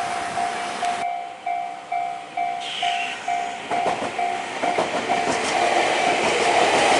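Level crossing warning bell ringing, a repeating electronic clang about twice a second. A train runs in over it with rail-joint clicks, growing louder near the end.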